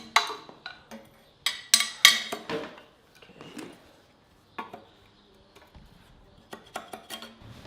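Sharp knocks and clattering of hard objects being handled and struck, in short clusters: a quick run about a second and a half in and another near the end, with single knocks between.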